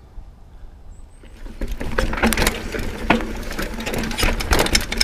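Mountain bike setting off and rolling over a rough, stony trail about a second and a half in: tyres on loose rock with a dense run of rattling and clicking from the bike.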